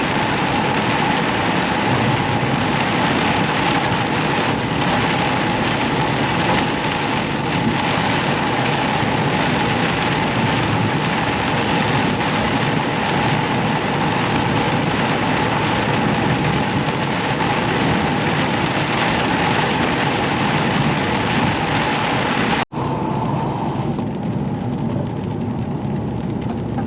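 Steady road and engine noise inside a truck cab on the move. It breaks off abruptly for an instant about 23 seconds in, then carries on slightly duller.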